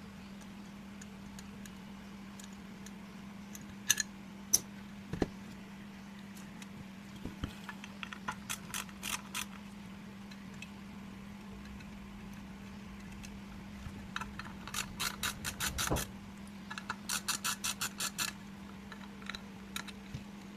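Runs of quick, light clicks, several a second, with a few sharper single clicks, over a steady low hum.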